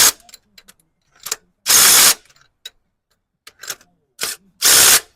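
Drill run in three short bursts of about half a second each, driving threaded fasteners down on an engine, with small clicks of tool handling between.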